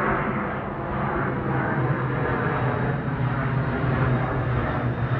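Airplane engine noise: a steady, dense drone with a strong low hum.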